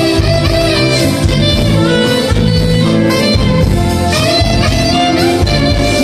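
Live band playing music, with melody instruments holding notes over a steady bass.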